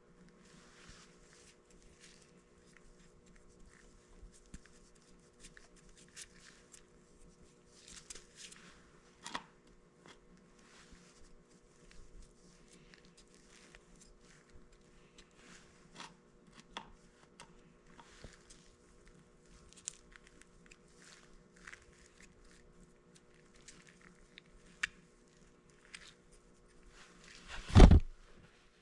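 Light scattered clicks, taps and rustling of hands and tools at work, over a faint steady hum, with one loud thump shortly before the end.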